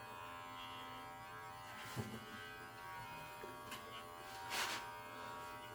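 Electric pet hair clipper running with a faint steady buzz while trimming a cat's fur. A few brief noises come near two seconds in and again about four and a half seconds in.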